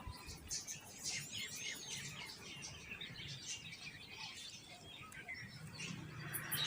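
Birds chirping: many short, high calls overlapping one another.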